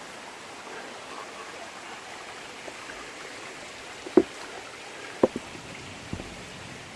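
Steady rush of a Highland river or stream flowing over rocks, with a few sharp knocks about four, five and six seconds in.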